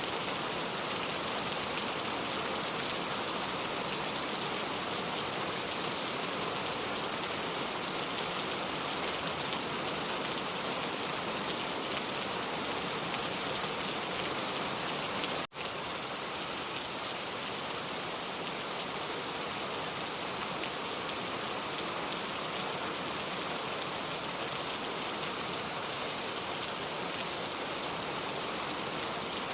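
Pouring rain falling steadily, an even hiss of many drops on a surface, with a split-second break in the sound about halfway through.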